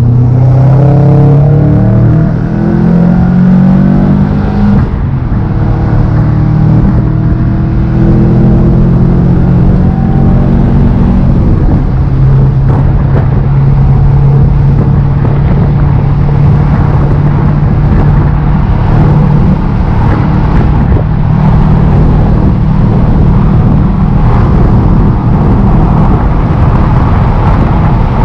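Subaru engine and exhaust under acceleration as the car pulls away: the engine note climbs in pitch, drops at a gear change about four and a half seconds in, climbs again and drops at a second shift around twelve seconds, then settles into a steady cruise.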